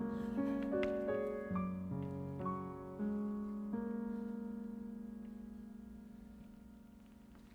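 Piano closing a song: a few separate notes, then a last chord about halfway through that is held and slowly dies away.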